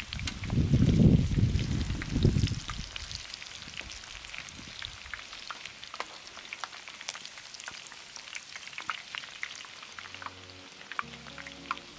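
Chicken wings frying in hot oil, with a steady sizzle and sharp crackling pops throughout. A loud low rumble covers the first two or three seconds, and low music notes come in near the end.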